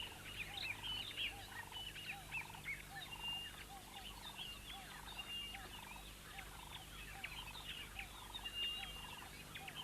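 Faint natural ambience of many birds calling: short chirps and whistles, with a lower call repeated at a steady rhythm.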